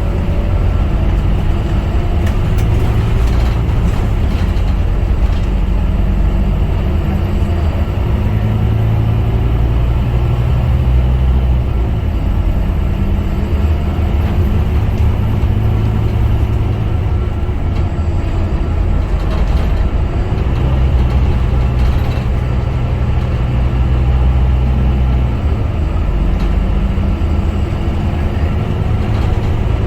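Scania K250UB bus's engine running while the bus is under way, its note shifting up and down in pitch a few times, together with steady road and running noise.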